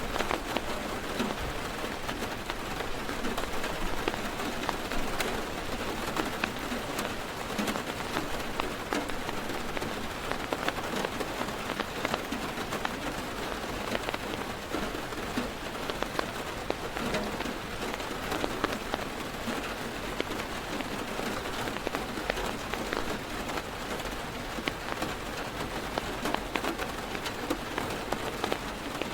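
Heavy rain drumming on a car's roof and windows, heard from inside the car: a dense, steady patter with many sharp individual drop hits.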